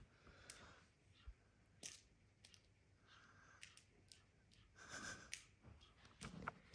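Near silence with faint, scattered short clicks and a few soft rustles.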